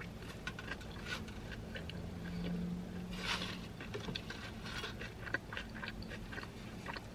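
Close-up chewing of a mouthful of burrito, with many small wet mouth clicks and crackles over a low steady hum.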